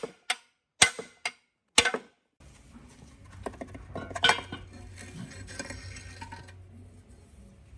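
Sharp metal-on-metal strikes, about one a second, for the first two seconds. Then metal parts clink and rattle over a low steady hum.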